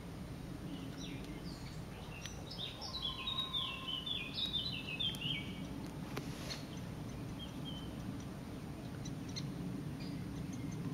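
A wild bird singing a descending series of short, clear notes. The phrase starts about a second in and lasts some four seconds, with a couple of faint notes later, over steady low background noise.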